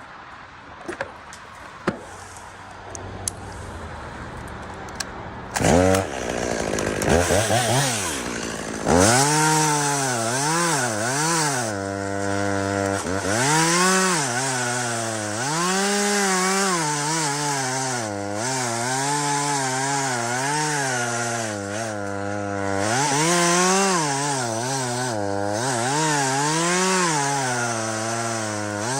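A few quiet knocks, then a chainsaw starts up about six seconds in. From about nine seconds it runs loud and rises and falls in pitch over and over, revving and bogging down as it cuts through wood.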